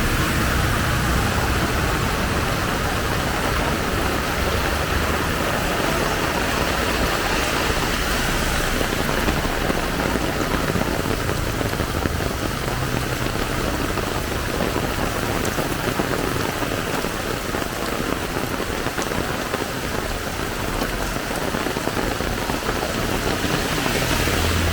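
Heavy rain pouring down steadily, a dense even hiss of rain. A vehicle's low engine rumble sits under it at the start and again near the end.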